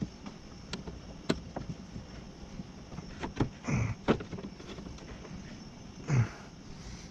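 Scattered clicks and knocks of metal parts being handled and fitted inside a car door as a window regulator and track are lined up, with a couple of short scraping sounds that bend in pitch.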